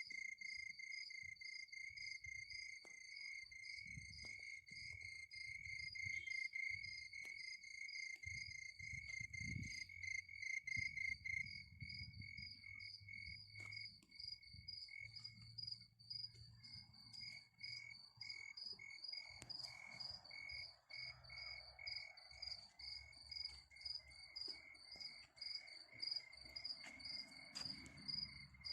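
Crickets calling in continuous, rapidly pulsing trills: one lower-pitched and one higher-pitched, with soft low thuds underneath.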